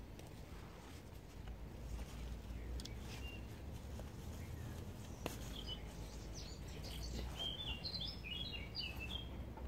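Outdoor ambience with a steady low rumble, a single sharp click about five seconds in, and small birds chirping in quick, short notes through the second half.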